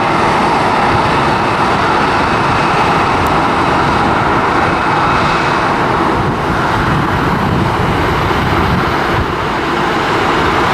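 Boeing 737-900ER's CFM56 turbofan engines producing a loud, steady jet noise as the airliner moves close by.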